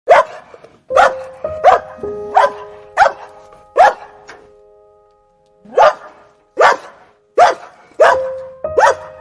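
Dog barking: about eleven sharp single barks at roughly one-second intervals, in two runs with a short pause midway, over steady held tones.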